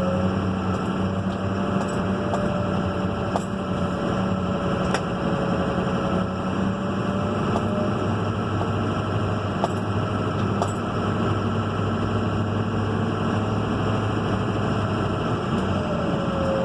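Turbocharged engine running steadily with a thin whine from the turbo that wavers slightly in pitch, over a steady engine drone, with a few faint clicks.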